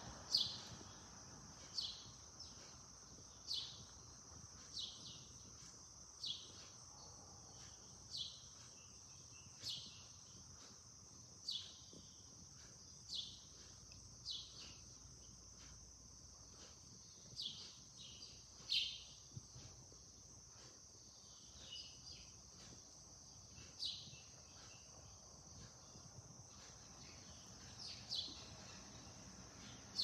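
A bird chirping over and over, one short falling chirp about every one to two seconds, over a steady high-pitched insect drone.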